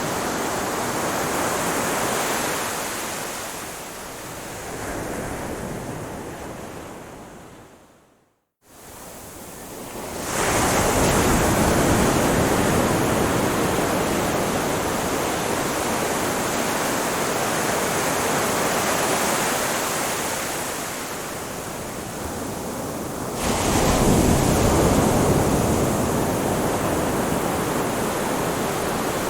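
Ocean waves washing onto a shore, a steady rush that swells and ebbs. About eight seconds in the sound fades and cuts to a moment of silence, then comes back loud; another wave surges near the end.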